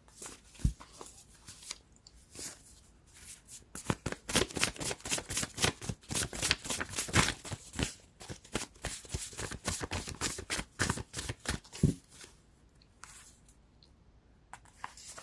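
A deck of tarot cards being shuffled by hand: quick papery card clicks, sparse at first, then a dense run for about eight seconds before dying away.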